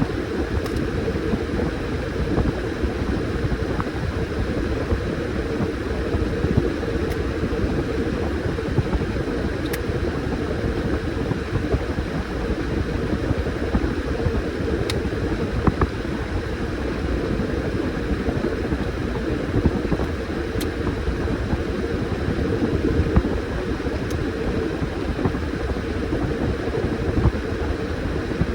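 Washing machine running with a load of towels, a steady churning noise with a few faint clicks scattered through it.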